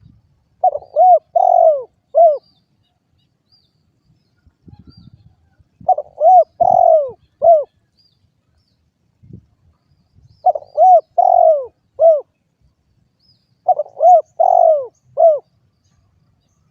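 Spotted dove (derkuku) cooing: four phrases of four or five short, arched coos, repeated about every four seconds.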